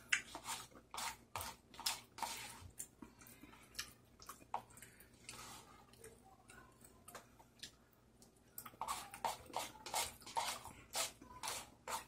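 Quiet, wet chewing and lip-smacking of a mouthful of rice mixed with tteokbokki sauce: a string of short smacks and clicks that pause briefly past the middle and come thicker near the end.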